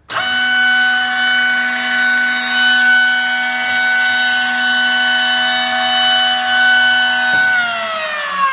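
Spindle motor of a Yilmaz FR 225 copy router switching on and running at steady speed with a high, even whine. About seven and a half seconds in it is switched off and winds down, its pitch falling.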